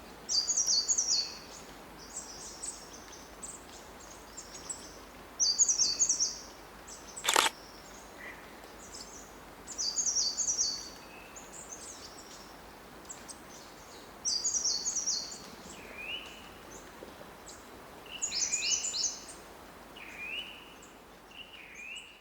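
Small songbirds singing in repeated bursts of quick, high chirps, each about a second long and a few seconds apart, with softer calls in between. A single sharp click comes about seven seconds in.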